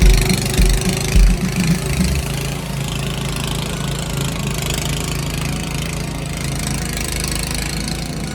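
An engine idling steadily, with a low thumping beat about twice a second that stops after the first second or so.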